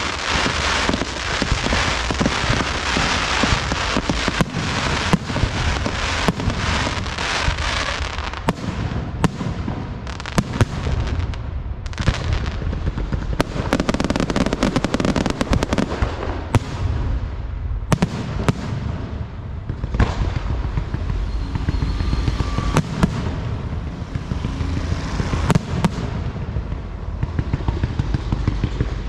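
A rapid string of sharp bangs and crackles over a low rumble, densest for the first eight seconds or so, then thinning to separate pops and bangs.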